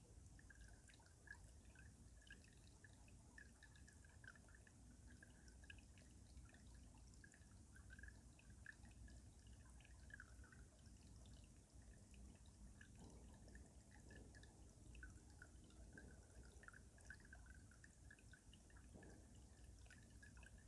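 Faint stream water running beneath ice, with many small, irregular drips and plinks over a low, steady flow.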